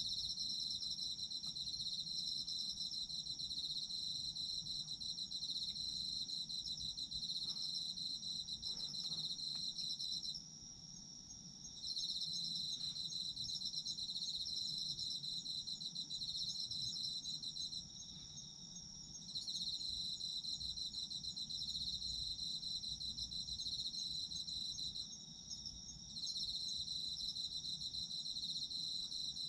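Autumn crickets singing together: a steady, high continuous trilling with a fainter, evenly pulsed chirp above it. The main trill breaks off briefly about a third of the way in, again past the middle, and once more near the end.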